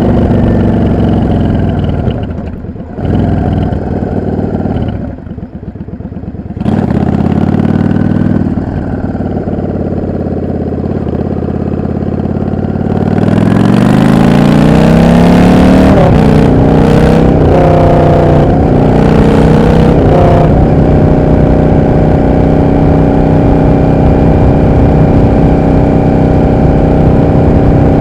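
Yamaha XVS 650 bobber's air-cooled V-twin engine heard from the rider's seat. It slows off the throttle at the start, then runs low and steady. About halfway in it accelerates through a few gear changes, its pitch rising in each gear, and then settles into a steady cruise.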